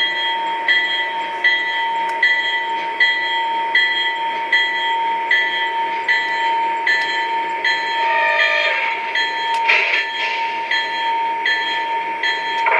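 Sound-equipped model Union Pacific diesel locomotives running: a steady tone with a regular ringing beat about every three-quarters of a second, and a couple of short extra sounds about two-thirds of the way through.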